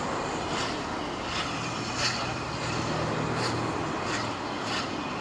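Steam locomotive working slowly, its exhaust beats coming evenly about every 0.7 seconds over a steady background rumble.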